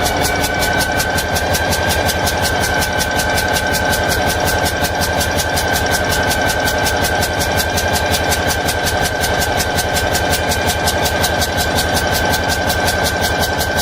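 An internal combustion engine running steadily, likely at idle, with an even, rapid firing beat and a steady high whine above it.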